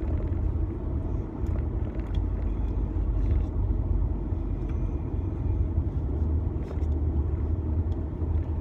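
Car road noise heard from inside the cabin while driving: a steady low rumble of engine and tyres, with a few faint clicks.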